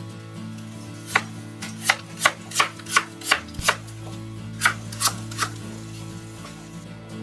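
Kitchen knife chopping on a cutting board: a quick run of about eight sharp knocks starting about a second in, a brief pause, then three more.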